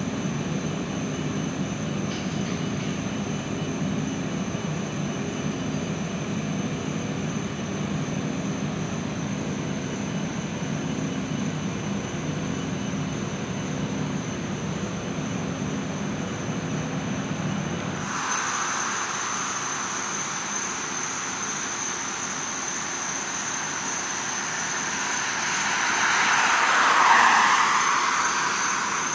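A large vehicle's engine runs steadily with a low rumble. It cuts off abruptly about 18 seconds in, giving way to a steady high insect drone, and near the end a vehicle swells up and passes by.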